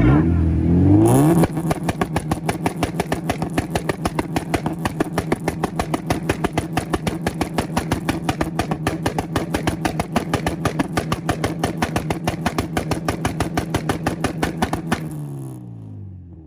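A car's engine revs up onto a two-step launch limiter and is held there for about thirteen seconds, the limiter cutting in and out in a rapid, even stutter. Near the end the throttle is let off and the revs fall away.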